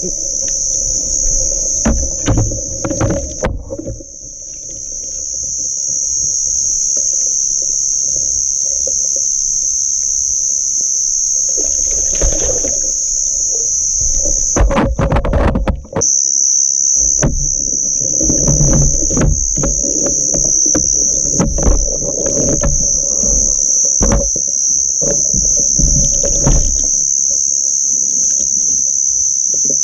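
Insects droning in a steady high tone, under irregular low thumps and rustling that drop out briefly twice.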